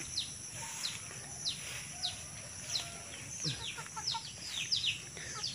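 Bird calling: a string of short chirps, each sweeping down in pitch, about one or two a second and coming faster near the end.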